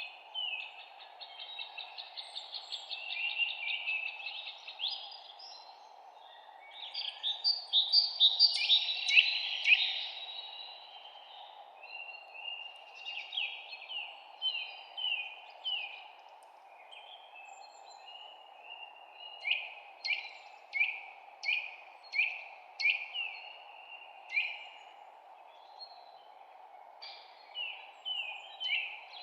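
Several songbirds chirping and singing, their short calls overlapping. The loudest part is a fast, dense run of notes about a third of the way in; later comes a string of quick, separate downward-sliding chirps. A steady low hum of background noise sits underneath.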